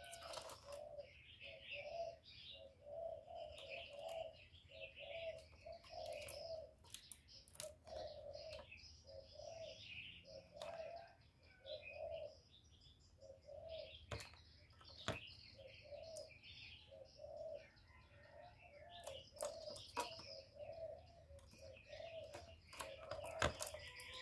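Decoy spotted dove cooing in a steady run of short, low coos, about one and a half a second. Higher chirps of small birds sound over it, with a few sharp clicks.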